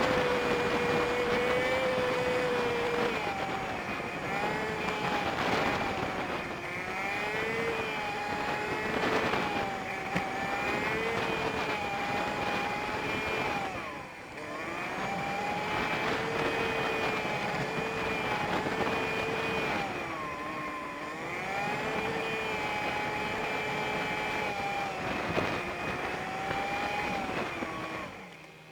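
Honda Super Cub 50's small single-cylinder engine heard from the bike-mounted dashcam, sped up five times so its note is raised. The pitch repeatedly climbs, holds and drops as the rider accelerates and changes gear, with a brief lull about halfway through.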